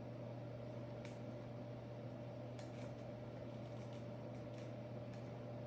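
A steady low electrical hum, with a few faint light ticks scattered through it.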